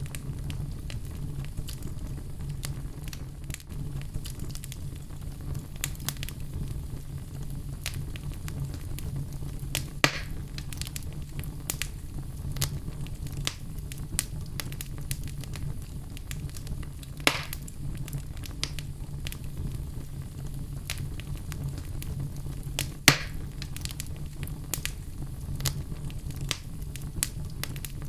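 Wood fire burning in a fireplace, crackling steadily with frequent small pops over a low rumble and hiss, and a few louder snaps, the loudest near the end.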